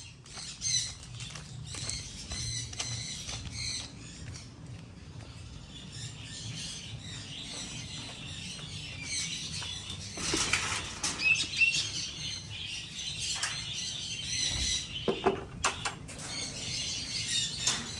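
Sun conures moving about in a wire flight cage: wing flaps, scattered clicks and rattles, and a few short high chirps, busiest about ten seconds in.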